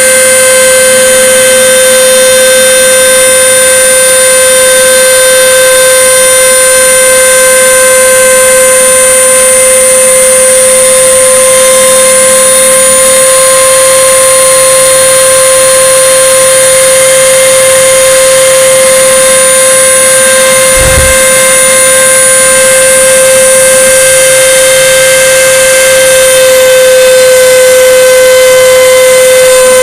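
CNC router spindle running at high speed with a steady, loud whine while milling 5 mm plywood. A brief low knock comes about 21 seconds in.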